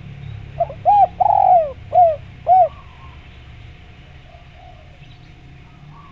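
Spotted dove (derkuku) giving one cooing phrase of about five notes, with a longer drawn-out note in the middle.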